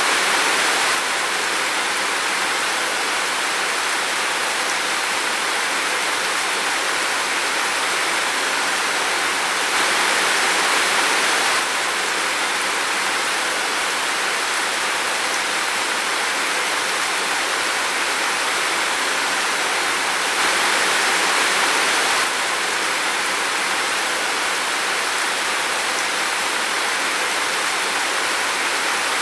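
Steady heavy rain falling in a forest, a dense even hiss that swells slightly twice along the way.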